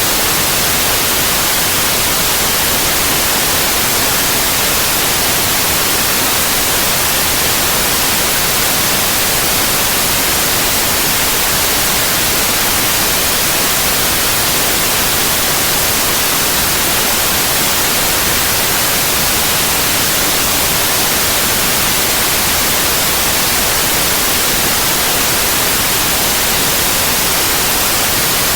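Steady, loud white noise: an even hiss across all pitches, brightest in the highs, with no change or interruption.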